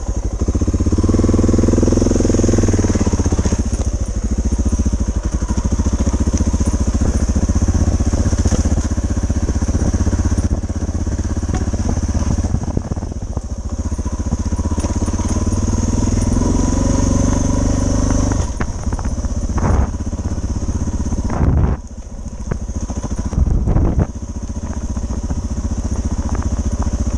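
Suzuki DR650's single-cylinder four-stroke engine running as the bike rides a rough dirt trail, rising in pitch under throttle twice: about two seconds in and again around sixteen seconds. A few sharp thumps come near the twenty-second mark.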